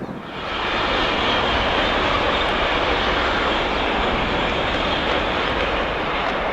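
A train passing close by: a steady rushing noise that comes up sharply about half a second in and holds level.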